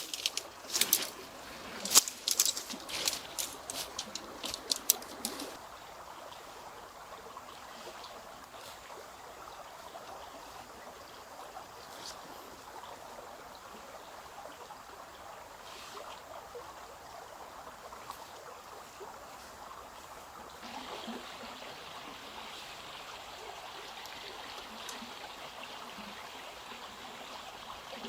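A quick run of sharp clicks and knocks, then steady running water that grows slightly louder and brighter about twenty seconds in.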